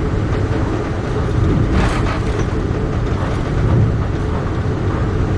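Amtrak Keystone passenger train in motion: a steady low rumble of wheels running on the rails, with a brief higher hiss about two seconds in.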